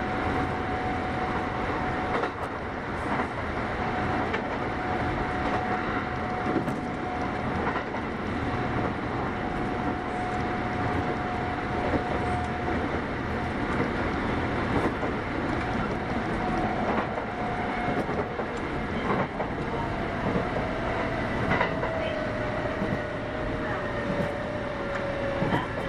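Running sound inside a Kintetsu 8810 series electric train: a steady rumble of wheels on rail with scattered clicks from rail joints, over a steady motor whine. In the last few seconds the whine slides lower in pitch as the train slows.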